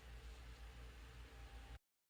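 Near silence: faint room tone with a low hum, cutting off abruptly near the end.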